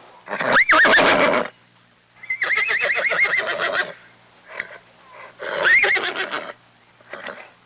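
Horse whinnying: three loud calls, the middle and longest one with a fast quavering pitch.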